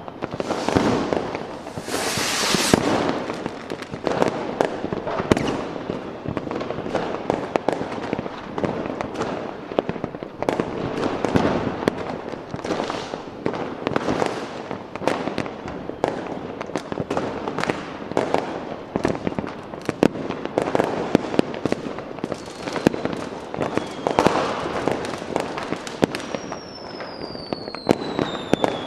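A fireworks display going off without pause: a dense run of bangs and crackling, with a loud hissing burst about two seconds in. Near the end, falling whistles from whistling rockets cut through the bangs.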